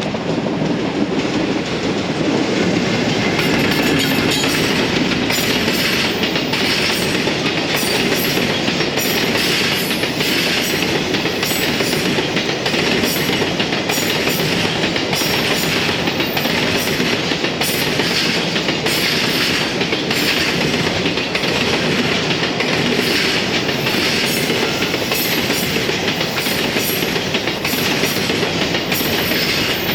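Freight train hauled by a JR Freight EF210 electric locomotive rolling steadily past, its wagon wheels clicking over the rail joints in a regular clickety-clack.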